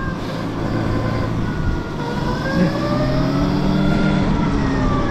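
Electric dirt bike's motor whining under way, its several-note whine rising and falling with the throttle over a low rumble.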